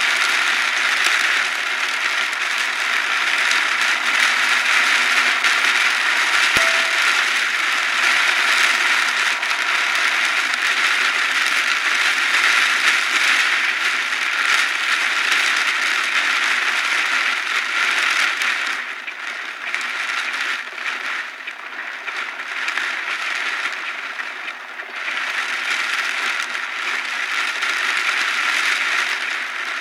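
Heavy rain beating on a car, a dense steady hiss that eases for a few seconds about two-thirds of the way through, then comes back up.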